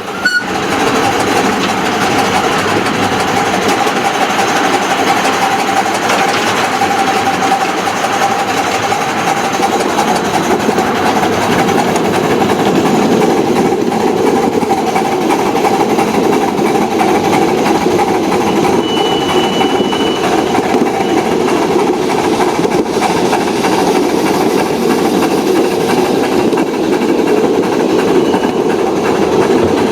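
Model train running steadily along the track, a continuous rolling rumble with the hum of its motor.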